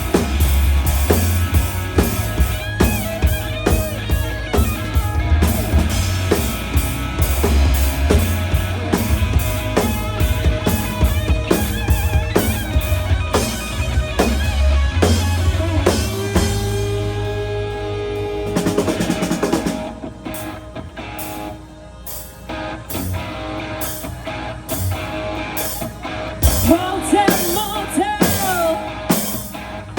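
Live rock band playing: a drum kit with bass drum keeping a steady beat under guitar. About two-thirds through, the drums drop out and it goes quieter for several seconds, then the full beat comes back in near the end.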